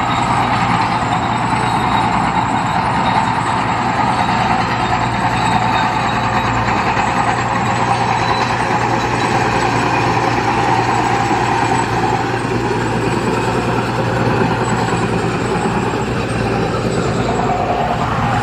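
Heavy diesel engine of earthmoving equipment running steadily, a continuous engine drone with no breaks.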